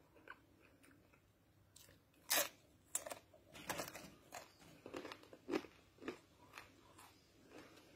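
A person biting and chewing dry corn chips: a loud first crunch about two and a half seconds in, then irregular crunches as they are chewed.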